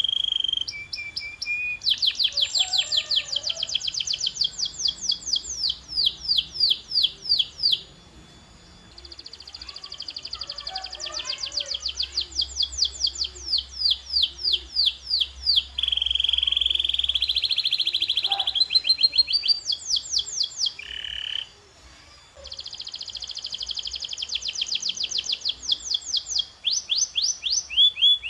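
Canary singing long trills of rapid repeated high notes, changing phrase every few seconds between fast sweeping trills and steady-pitched rolls, with two short pauses.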